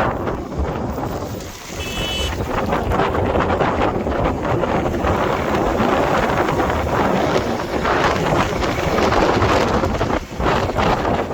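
Wind buffeting the microphone: a loud, steady rush that dips briefly twice, with a short high-pitched tone about two seconds in.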